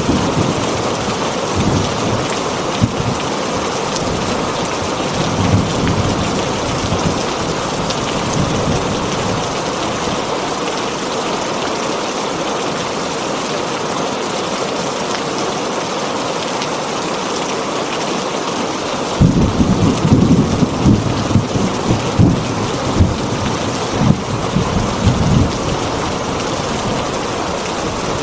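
Heavy rain pattering steadily on a tin roof. Low rumbles of thunder come briefly near the start and again about five seconds in, then a longer, stronger rumble runs from about two-thirds of the way through until shortly before the end.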